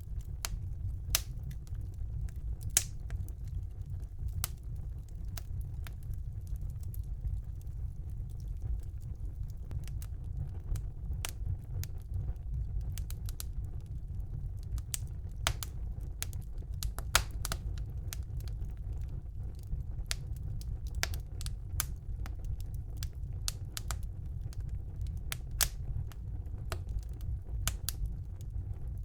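Wood fire burning in a fireplace: a steady low rumble of the flames with irregular crackles and sharp pops from the burning logs, a few louder pops standing out.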